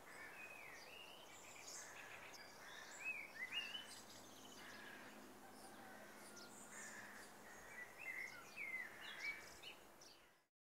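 Faint birdsong: scattered short chirps and whistled calls over a low hiss, with the busiest bursts about a third of the way in and again near the end. It cuts to silence just before the end.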